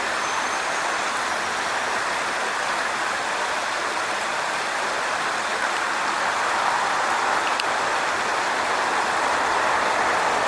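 Storm-swollen stream rushing steadily, its water pouring into a pond: high flow after back-to-back storms.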